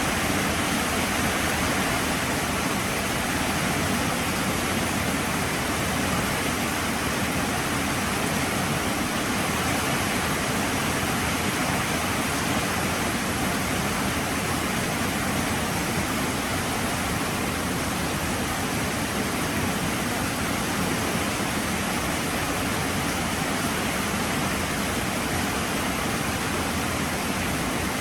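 Heavy rain falling steadily, an even continuous hiss with no breaks.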